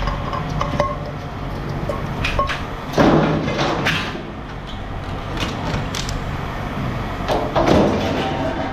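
Scrap metal being handled and sorted: irregular knocks and clatter, loudest about three seconds in and again near the end, over a low steady hum.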